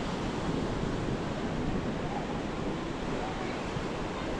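Ocean surf washing steadily onto the beach, mixed with wind noise on the microphone.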